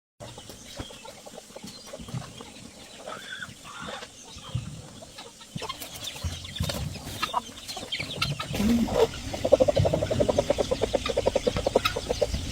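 Chickens clucking, with a fast run of clucks about two-thirds of the way in.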